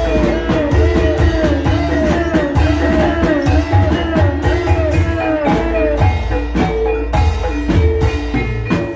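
Gamelan-style ebeg accompaniment: mallet-struck keyed instruments and drums playing a fast, steady rhythm, with a short wavering melodic figure repeated over it.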